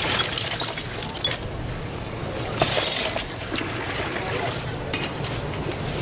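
Irregular light clinks and rattles of small hard objects being handled, with one sharper click about two and a half seconds in, over a steady low background noise.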